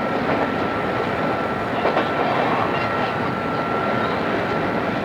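Odakyu 2600 series electric train running steadily, heard from inside the car on an old cassette-tape recording, with one rail-joint clack about two seconds in.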